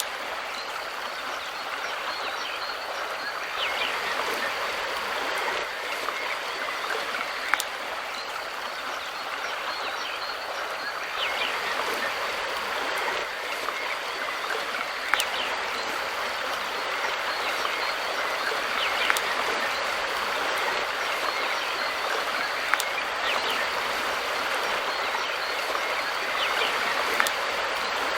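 A mountain river flowing, a steady rush of water, with faint short bird chirps now and then. Sharp ticks sound about every four seconds.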